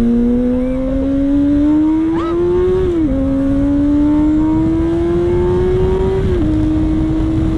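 Kawasaki ZX-6R sport bike's inline-four engine accelerating through the gears. The engine note climbs, drops with an upshift about three seconds in, climbs again, drops with another upshift a little past six seconds, then holds steady, over a low rushing noise.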